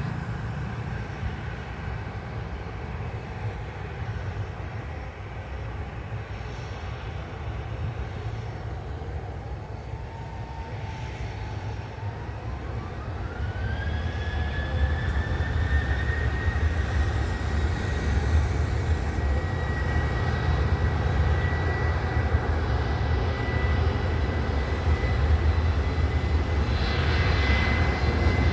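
Airplane engines running with a low rumble; about ten seconds in, a whine rises in pitch over a few seconds and the sound grows louder, then holds high and steady as the engines spool up to takeoff power.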